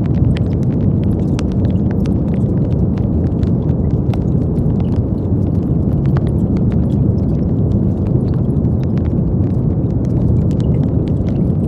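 Brown noise: a steady, deep rumbling hiss weighted toward the low end, with faint scattered clicks.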